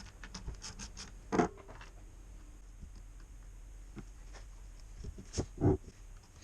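Small scraping and rubbing sounds of hand work on the chainsaw, with a sharp knock about a second and a half in and a couple more near the end.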